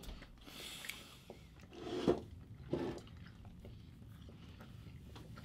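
Quiet, wet chewing of a mouthful of Skittles, with two short louder sounds about two and three seconds in.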